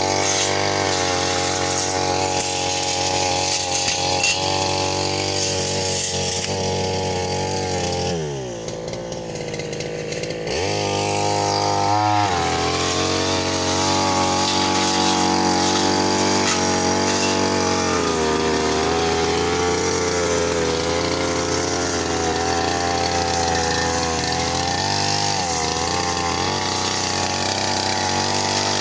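Brush cutter engine running at high revs. About eight seconds in the throttle is let off and the revs fall away to a low idle, then it revs back up some two seconds later, with brief dips in speed again a little after that and near the end.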